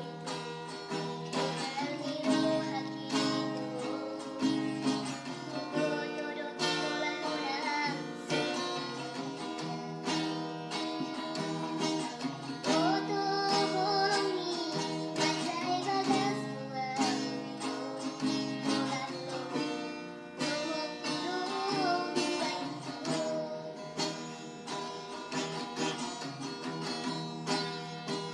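A person singing to an acoustic guitar played with steady strumming.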